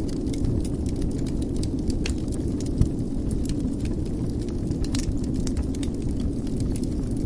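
Wood fire in a fireplace crackling, with irregular sharp pops and snaps over a steady low rushing sound of the burning; one louder pop a little under three seconds in.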